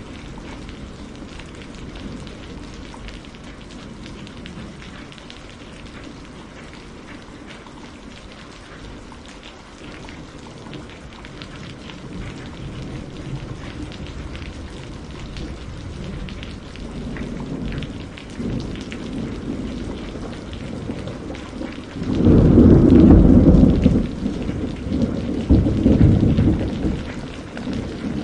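Steady rain with rolling thunder: a low rumble builds through the second half and breaks into a loud thunderclap about three-quarters of the way in, rolling on with a second surge near the end.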